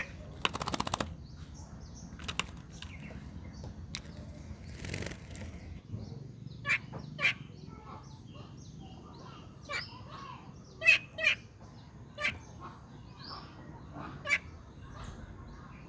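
Birds: a quick flurry of wingbeats near the start, then scattered short calls.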